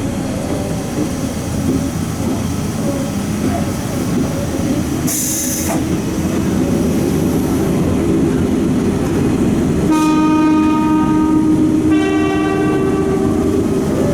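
Eizan Electric Railway train running along the track. A short hiss comes about five seconds in. Near the end come two horn blasts in a row, each about two seconds long and on a different pitch.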